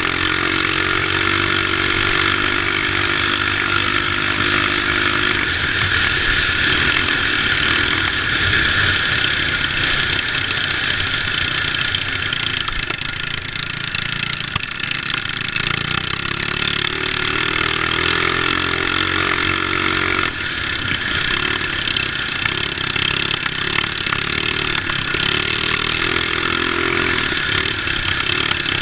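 Small mini bike engines running through a race, the engine pitch rising and falling as the throttle changes.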